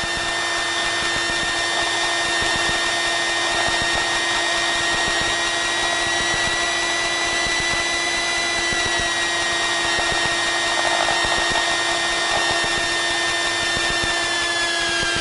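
Piper Cherokee's single piston engine and propeller running steadily, heard from inside the cabin. A high whine in the drone rises slightly over the first half, then falls in pitch around the middle and again near the end.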